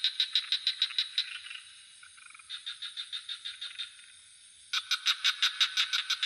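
Frogs calling in rapid pulsed trains of about seven pulses a second, in three bouts with short lulls between them, over a steady high-pitched insect drone.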